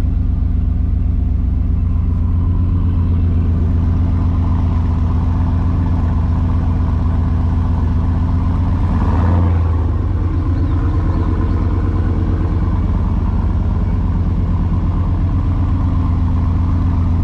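Vehicle engine running steadily with a low, even drone, as at a constant cruising speed. There is a brief swell and change in the sound about nine seconds in.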